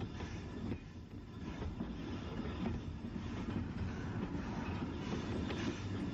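Train running along the track: a steady rumble with occasional clicks of the wheels over rail joints.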